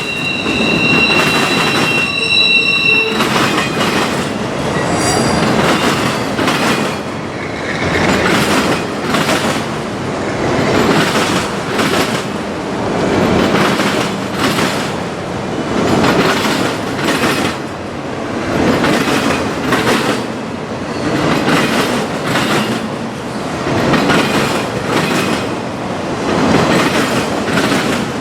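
A train's cars rolling past, their wheels clacking over the rail joints in a steady, repeating rhythm. A high-pitched steel wheel squeal rings for the first few seconds.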